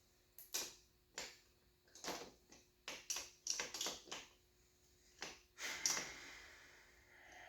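Hand tools clicking and clinking on metal while the cylinder bolts are undone on a dirt-bike engine. About a dozen irregular sharp clicks, with a longer scrape about six seconds in.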